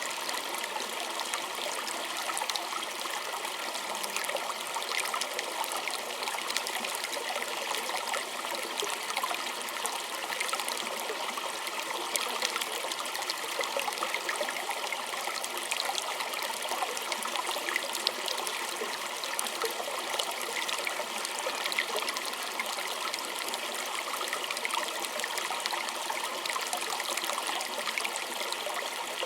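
Small stream flowing over stones, a steady babbling trickle with many small splashes and gurgles.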